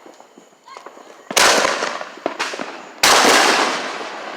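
Fireworks going off: a loud bang about a second in, a smaller pop a second later, then another loud bang, each trailing off over a second or so.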